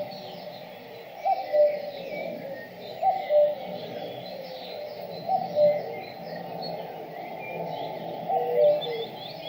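Birdsong: a low two-note call, the second note lower than the first, repeated about every two seconds over quicker, higher chirping of small birds.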